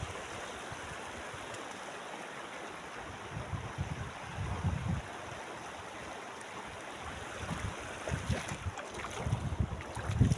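River water flowing: a steady rushing, with wind buffeting the microphone for a moment near the middle and again near the end.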